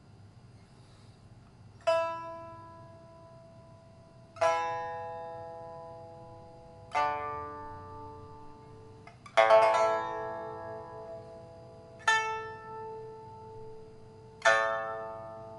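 Red rosewood (hongsuanzhi) pipa with a new soundboard and new frets, played solo in a slow passage after its repair. Six widely spaced plucked notes and chords each ring out and fade; the fourth, about nine seconds in, is a loud, quick flurry of strokes. The first string is steel and the other three are Dunhuang strings.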